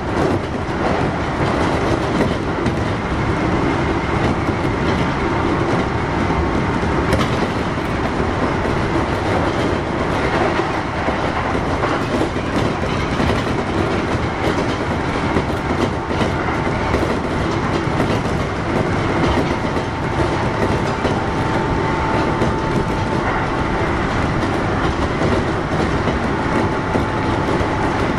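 Kintetsu 1021 series electric train (Hitachi GTO-VVVF) running between stations, heard on board: a steady rumble of wheels on rail, with a faint high whine that comes and goes.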